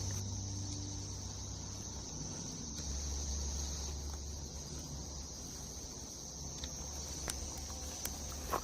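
A steady chorus of crickets, heard as a continuous high trill, over a faint low rumble.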